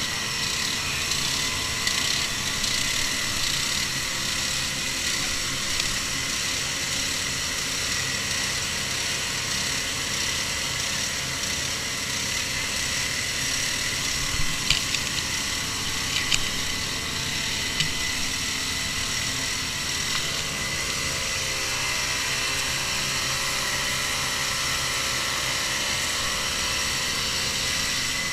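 An engine running steadily at high speed with a high-pitched whine. There are three short clicks about halfway through.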